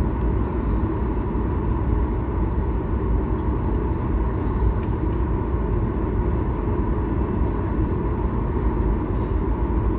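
Steady low rumble with a lighter hiss above it: cabin noise inside a Boeing 737 MAX 8 on the ground after landing.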